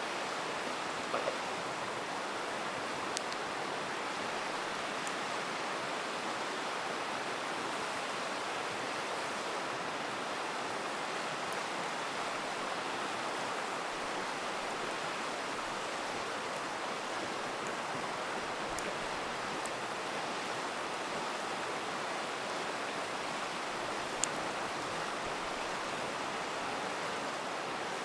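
River flowing steadily, a constant rush of water, with a campfire crackling: a few sharp pops, the clearest about a second in and near the end.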